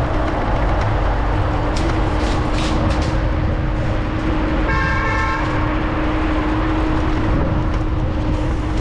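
Steady low rumble of wind on the microphone mixed with street traffic, with a vehicle horn honking once, for just under a second, about halfway through.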